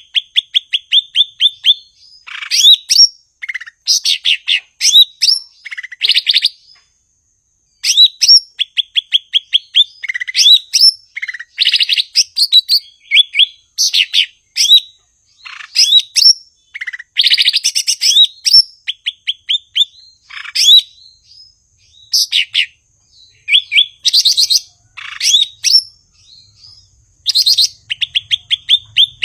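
Cucak ijo (green leafbird) singing in full voice: loud phrases of rapid, evenly spaced whistled notes, some with quick upward sweeps, repeated one after another with short pauses between them.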